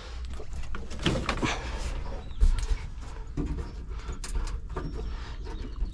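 Wiring harness being worked free of a truck: rustling of wires and tape, with scattered clicks and knocks of plastic connectors and a dull thump about two and a half seconds in.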